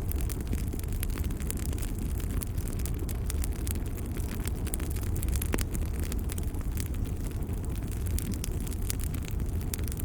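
Fireplace fire crackling: many small irregular pops over a steady low rumble.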